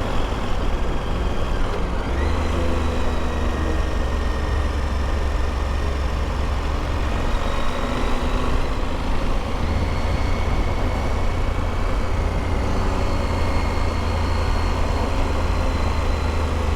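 KTM motorcycle riding at a steady speed, heard through an in-helmet microphone: a steady engine drone and wind rush over the helmet, with a faint whine holding its pitch.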